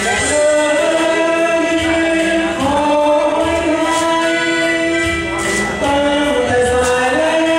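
Singing of a Thai luk thung song with musical accompaniment, the voice holding long notes that step from pitch to pitch.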